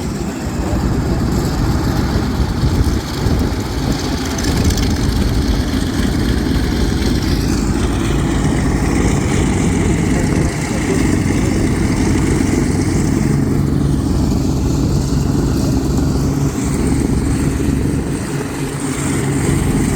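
Pratt & Whitney R-2800 eighteen-cylinder radial engine of a Vought F4U Corsair running steadily in a ground run.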